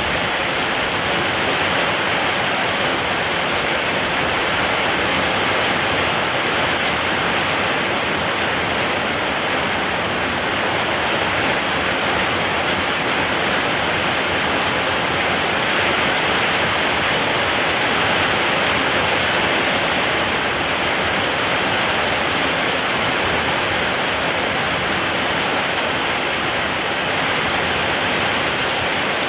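Steady rain falling, an even rushing hiss with no pauses or separate drops standing out.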